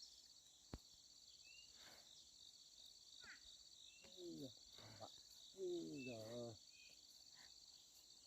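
Crickets or other insects trilling steadily in a high, faint chorus. Two short, low calls, each falling in pitch, come about four and six seconds in.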